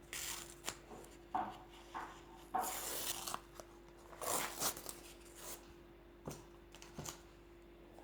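Irregular rustling and scraping noises, bursts of a half second or so, with a couple of short clicks near the end: things being handled close to the microphone.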